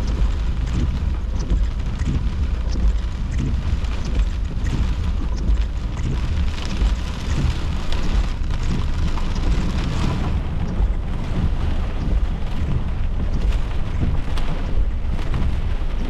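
Heavy wind-driven rain pelting a car, heard from inside the cabin, over a steady low rumble of wind.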